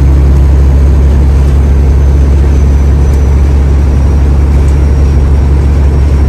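Loud, steady low rumble of a truck's engine and road noise heard inside the cab while driving.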